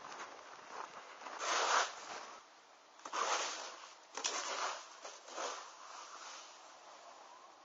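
Slow footsteps crunching through deep snow, about one step a second, then tapering off.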